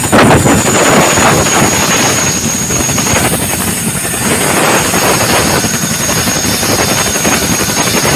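Boeing CH-47 Chinook tandem-rotor helicopter running loudly close by: a dense rotor and engine noise with a steady high whine over it.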